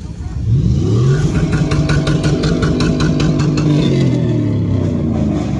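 A vehicle engine revs up about half a second in and is held at high revs for about four seconds, easing off slightly near the end, with a quick rhythmic crackle of about seven clicks a second over the held rev.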